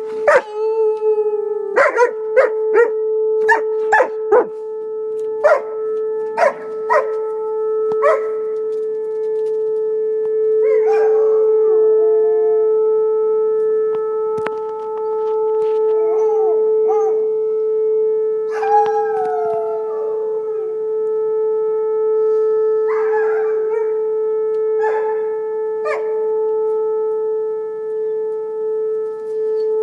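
Alaskan Malamute howling along with a tornado warning siren. The siren holds one steady tone throughout. Over it the dog gives a quick run of short yips and barks in the first several seconds, then several long howls that slide down in pitch.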